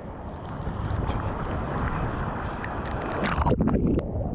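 A large ocean wave breaking in the surf, its noise building and peaking in a loud crash about three and a half seconds in, with wind buffeting the microphone.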